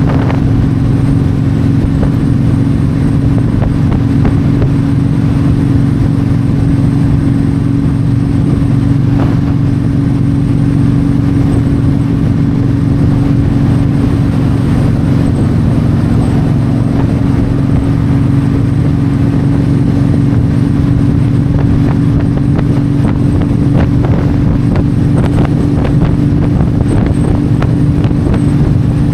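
Yamaha V Star 1300's V-twin engine running steadily at cruising speed on the highway, with wind rushing past the microphone.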